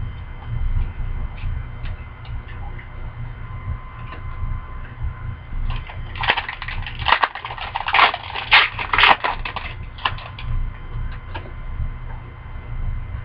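Crinkling and crackling of a hockey card pack wrapper being handled, loudest for about four seconds from roughly six seconds in, with a few sharp snaps. Light handling ticks come before and after it over a steady low hum.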